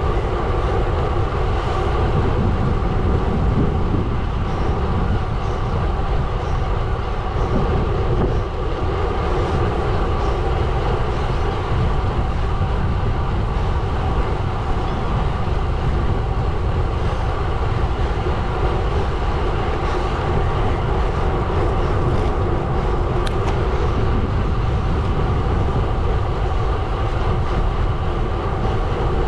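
Gravel bike tyres rolling steadily over a gravel road, a continuous crunching rumble.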